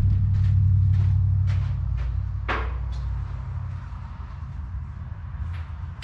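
Metal parts being handled during windrower repair: scattered knocks and clanks, the loudest about two and a half seconds in, over a low hum that fades out about halfway through.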